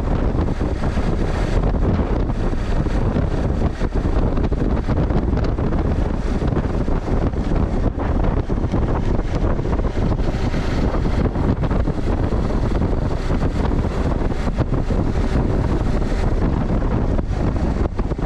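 Heavy wind buffeting a GoPro's microphone while moving, a loud, steady rumbling roar with constant flutter.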